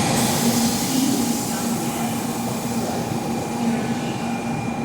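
Electric train in motion: a steady rumble of running noise with a few steady whining tones over it.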